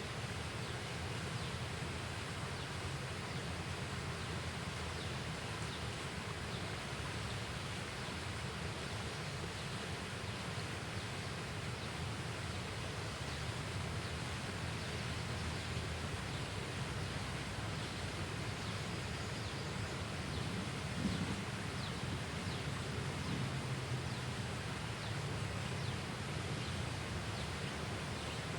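Steady outdoor ambience: a constant rustling hiss with low wind rumble, and faint scattered high chirps of small creatures.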